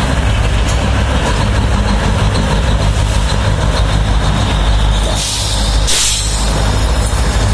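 Steady heavy low rumble of a train, with a short hiss about five seconds in.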